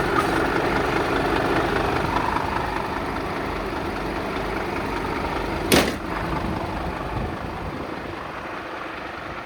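Scania P250's five-cylinder diesel engine idling steadily. A brief sharp burst of noise cuts in about six seconds in, the loudest moment, and the idle grows slightly quieter toward the end.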